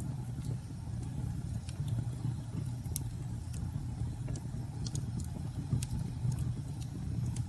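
Fireplace crackling, with scattered sharp pops, over a steady low rumble of storm wind.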